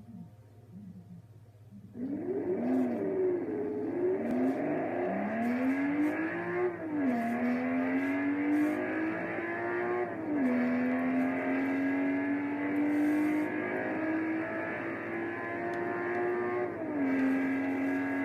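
1997 BMW M3's straight-six engine at full-throttle acceleration. The engine note comes in loud about two seconds in and wavers at first. It then climbs steadily and drops at three upshifts, each gear held longer than the last.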